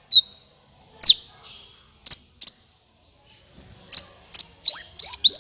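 Kolibri ninja (a sunbird) calling, as used for a bird lure: sharp, high chirps that sweep downward, about one a second at first, speeding into a quick run of chirps near the end.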